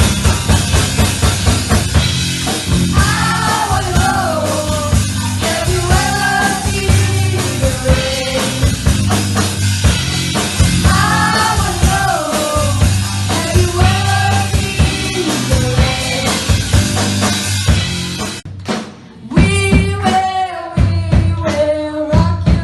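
Live rock band playing: drum kit and bass keep a steady beat under a bending lead melody. About three-quarters of the way through the band drops out briefly, then comes back in more sparsely.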